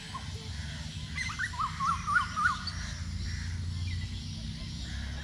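A bird calling: a quick run of about five short chirping notes that rise and fall, over a low steady rumble.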